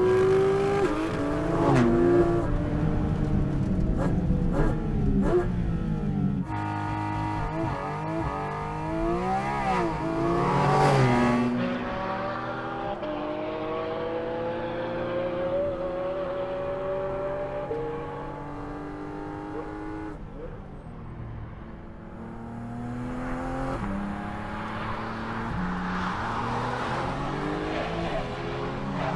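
Porsche 718 Cayman GT4 RS's naturally aspirated 4.0-litre flat-six engine driven hard on a race track, its pitch climbing again and again through the revs and dropping back at gear changes and braking. The sound changes abruptly a couple of times.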